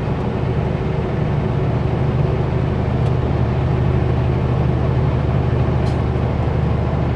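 Kenworth W900L semi truck's diesel engine running under way, a steady low drone mixed with road noise as heard inside the cab.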